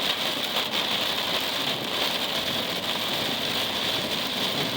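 Steady rain pattering on a moving vehicle, mixed with road noise.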